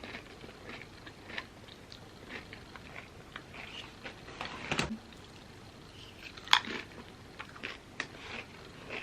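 A person biting and chewing crunchy chips: a string of short, crisp crunches, with one sharp, loud crunch about six and a half seconds in.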